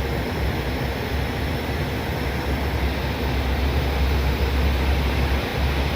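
Airbus A319 flight deck in flight: a steady rush of airflow over a constant low rumble from the engines and airframe.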